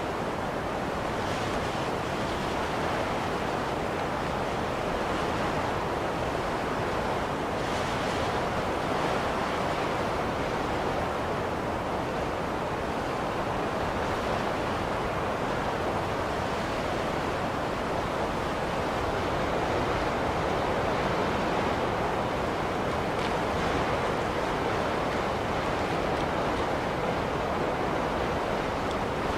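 Blizzard wind blowing as a steady, dense rush with slight swells, and a few brief hissing gusts on top.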